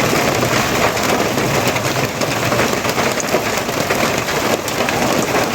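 Steady heavy rain falling, a dense even patter of drops that never lets up.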